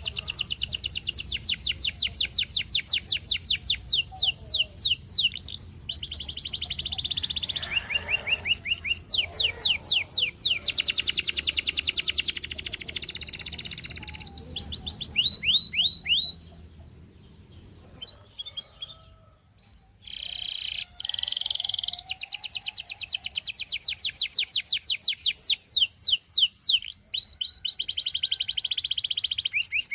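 A Russian singing canary in full song: long rolls and trills of rapidly repeated high notes, some sweeping down in pitch. The song breaks off a little past halfway for a few seconds of scattered soft notes, then resumes.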